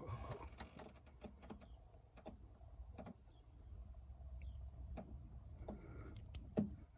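Scattered light clicks and taps of hand tools and metal parts being handled at the engine during spark plug removal, over a low steady hum.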